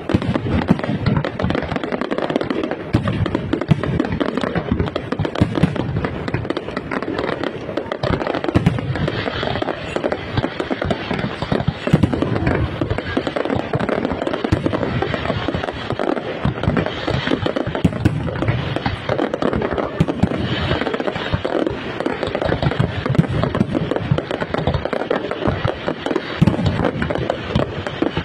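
Aerial fireworks display in a dense, continuous barrage: overlapping bangs and crackling shell bursts following one another with no pause.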